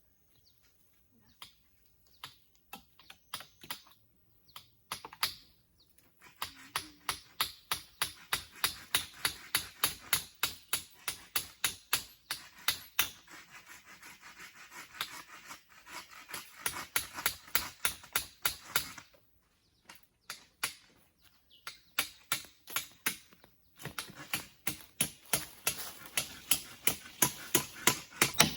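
Rapid, regular strikes of a tool on wood, about three a second, in long runs broken by short pauses.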